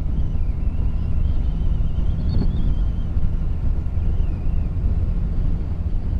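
Wind buffeting the microphone of a moving motorcycle, with the engine's low rumble running steadily underneath and a faint high whistle wavering in pitch.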